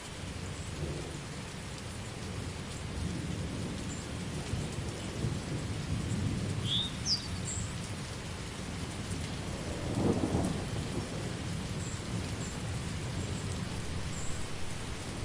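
Steady rain falling through a thunderstorm, with low rolling thunder rumbling underneath. The thunder swells to its loudest peal about ten seconds in.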